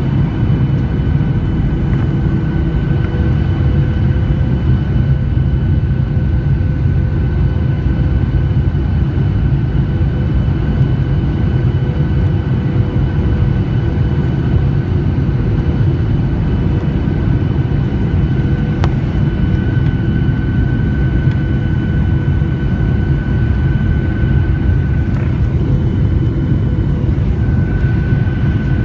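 Steady loud drone of a jet airliner's engines and airflow on its landing approach, a low rumble with a few constant whining tones above it.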